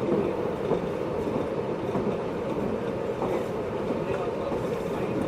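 Inside a JR East 583 series electric train's motor car under way: a steady rumble of wheels and running gear on the rails, with a few faint clicks.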